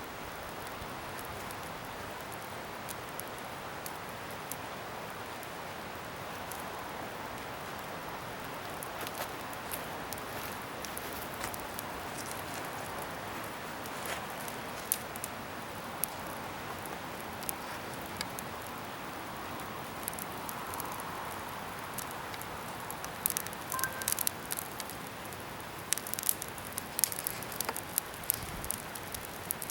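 Wood bonfire burning with a steady hiss and scattered crackles and pops, which come thicker and louder near the end.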